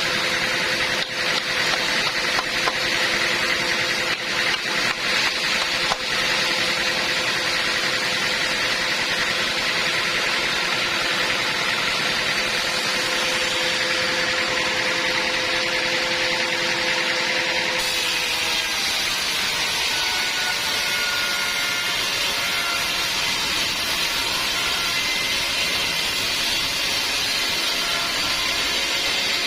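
Sawmill band saw running steadily with a constant machine hum; the tone of the run changes about eighteen seconds in.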